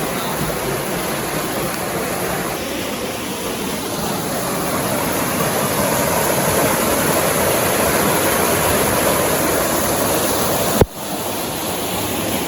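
Steady rushing of flowing water, like a forest stream or small waterfall, with no distinct events in it. A sharp click about eleven seconds in, where the rushing briefly drops away and comes back.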